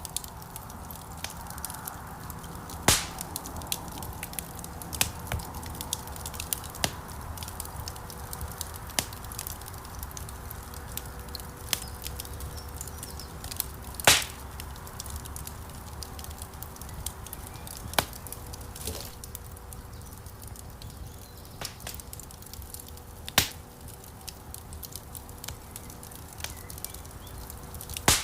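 Wood fire crackling in a stone fireplace: a steady low rush of flame with frequent small crackles and a few sharp, louder pops of burning logs, the biggest about three seconds in, about halfway, and about 23 seconds in.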